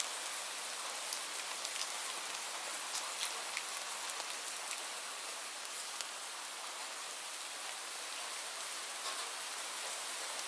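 Steady rain falling, with a continuous hiss and scattered sharper drop taps, several a second.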